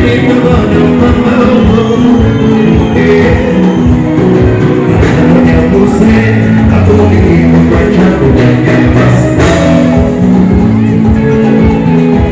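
Loud live band music with a singer.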